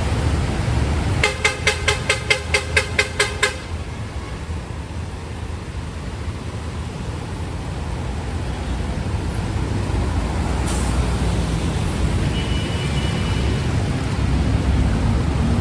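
A vehicle horn honking in a rapid string of about nine short beeps, about four a second, over steady street traffic noise.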